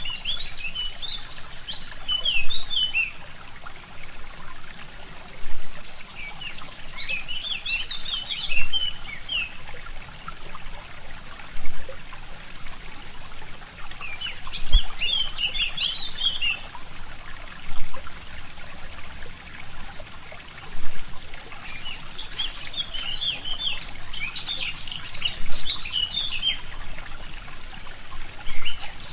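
Forest songbirds singing in bursts of quick high chirps and trills, four times, over a steady trickling stream.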